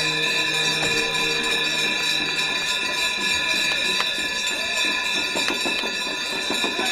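Ganga aarti ceremony: devotional music with bells jingling and ringing steadily throughout.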